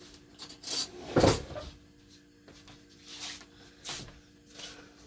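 Kitchen cabinets being opened and shut as a spoon is fetched: a sharp knock about a second in, then several softer knocks and rustles.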